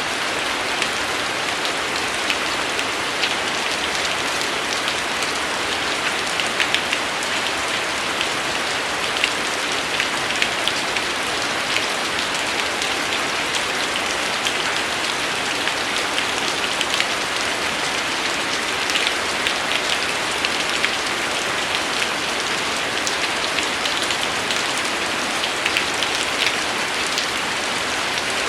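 Steady rain falling, an even hiss with many small, sharp raindrop taps on a surface.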